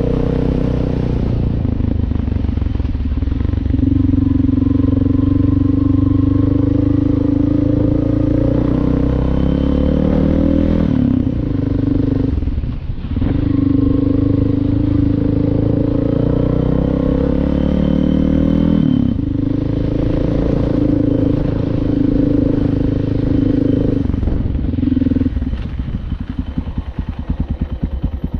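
Suzuki DR650's single-cylinder engine running under way, its note rising as it pulls and dipping briefly at gear changes about twelve and nineteen seconds in. Near the end the steady note drops away into rapid, uneven pulsing as the throttle closes.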